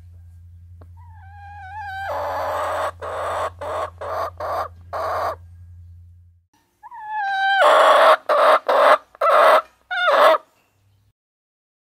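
Hens calling in two bouts: a wavering call followed by a run of harsh repeated squawks, then a louder bout of the same about halfway through. A steady low hum underneath stops suddenly about halfway through.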